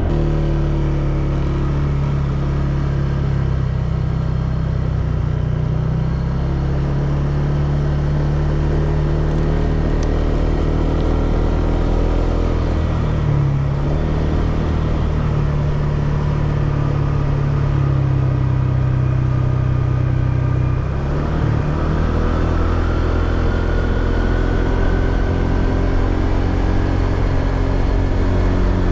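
Honda PCX scooter's single-cylinder engine running while riding, its note holding steady at a near-constant speed and shifting pitch a couple of times, over low road and wind rumble.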